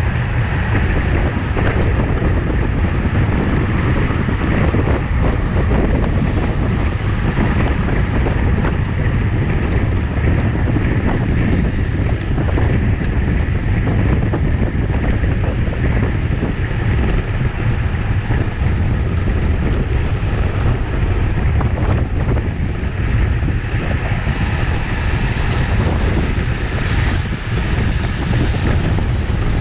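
Steady wind rush buffeting the microphone of a camera riding along in a bicycle race at speed, loudest in the low end.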